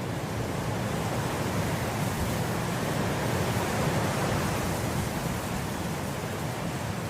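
Wind blowing through grass in a steady gust that swells about halfway through and then eases off.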